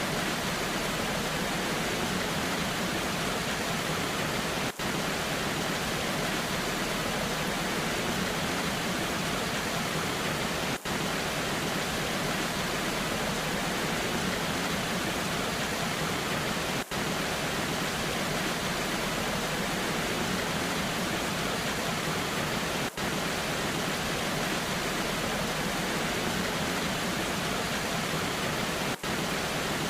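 Steady rushing of a waterfall in the rain, an even wash of water noise, with a brief drop in level about every six seconds.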